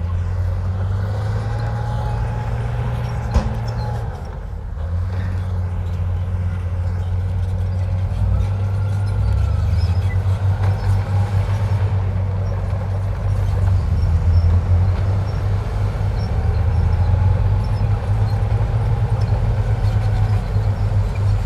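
Heavy diesel engine of earthmoving machinery running steadily, with one sharp clank about three seconds in. The engine eases off briefly a few seconds in, then runs louder and rougher under load.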